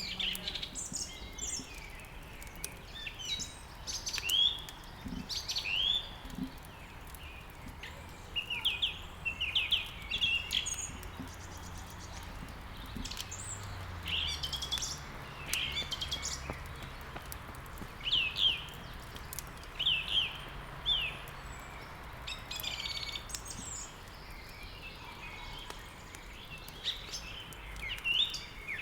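Several songbirds chirping and singing in quick, overlapping phrases, over a steady soft hiss with a few faint crackles from a wood fire.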